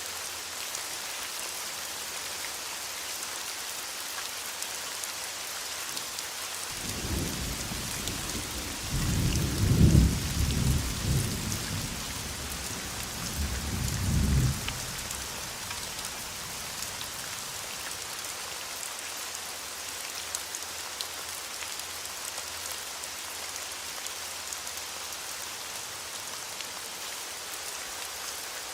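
Steady rain falling, with a low rumble of thunder that builds about seven seconds in, peaks twice and dies away after about eight seconds.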